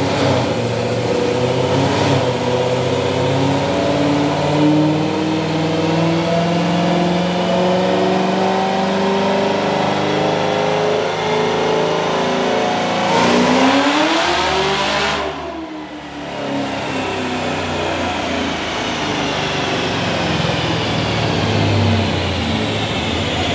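Supercharged 6.2-litre LT4 V8 of a modified Camaro ZL1 running hard on a chassis dyno, its pitch climbing steadily through a long pull. About thirteen seconds in the pitch rises steeply, then it drops off abruptly and the sound dips briefly before the engine climbs again.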